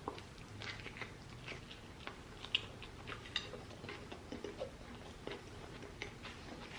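A man chewing a mouthful of bacon cheeseburger, faint irregular wet clicks and smacks of eating.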